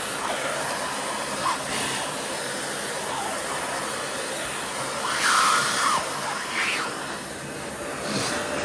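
Vacuum cleaner running with a steady whooshing drone, with several short high cries that rise and fall in pitch over it.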